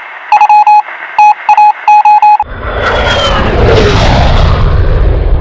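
Quick electronic beeps in short groups. About two and a half seconds in they give way to a jet airliner's loud rushing roar, which swells and carries a falling whine as it passes.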